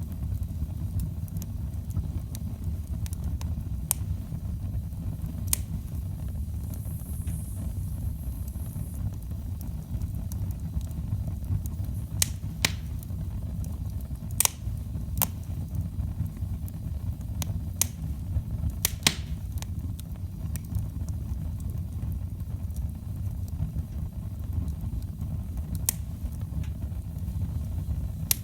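Wood fire burning in a fireplace: a steady low rumble with scattered sharp crackles and pops, a few louder pops coming a little past the middle.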